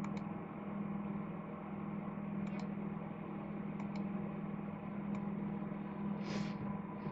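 A steady background hum runs throughout. Over it come a few faint clicks, in twos and singly, as the small stainless steel parts of a dripping atomiser are handled while its airflow control ring is taken off. There is a short hiss near the end.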